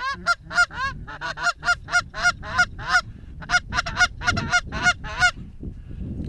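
Rapid run of goose honks, about three sharp notes a second, that stops about five seconds in, with low wind noise underneath.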